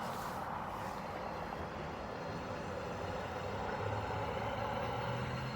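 Motor vehicle traffic: a steady road hiss fading after a vehicle has passed, with a low engine hum building about three and a half seconds in.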